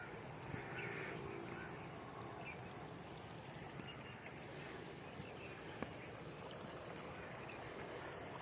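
Faint, steady rush of a mountain river flowing, with a few soft clicks and a thin high tone that comes and goes.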